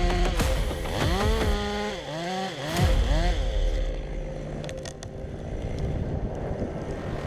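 Chainsaw engine revving up and down several times in quick succession, then running lower and steadier.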